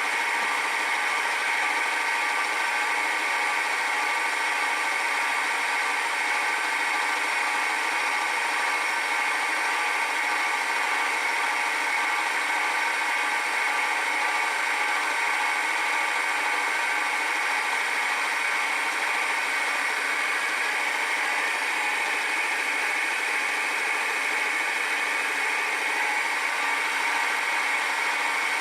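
Milling machine running steadily at about 600 RPM, its 4-flute carbide end mill taking a light 0.1 mm pass to cut a replacement tooth in a gear. It gives an even, unchanging hum with a few steady whining tones.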